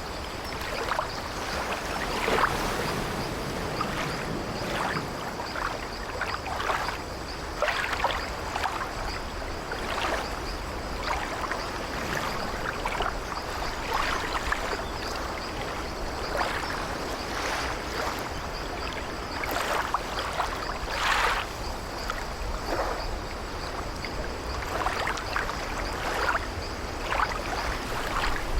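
Sea waves washing around an old wooden ship, with short creaks from its wooden hull and deck coming every second or so.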